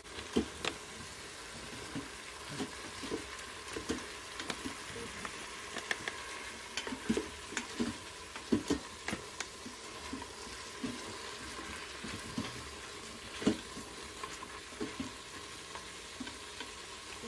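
Beef pieces with onions and green peppers sizzling as they sauté in the metal inner pot of an electric pressure cooker. A plastic spatula stirs them, scraping and knocking irregularly against the pot over a steady sizzle.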